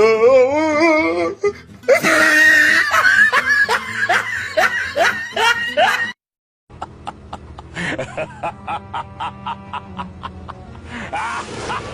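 Stock comedy sound effects: a wavering laugh, then laughter over music, cut off about six seconds in by a half-second of silence, followed by a music clip with an even beat of about three pulses a second.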